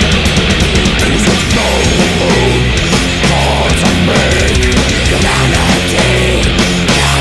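Death/thrash metal band recording playing loud and unbroken, with distorted guitar and bass.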